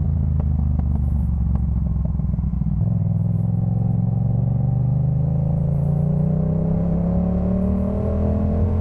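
2018 Yamaha MT-07's parallel-twin engine through a Jeskap K4 full exhaust, running low with a few sharp pops in the first couple of seconds. From about three seconds in, the engine note rises steadily as the bike accelerates, until near the end.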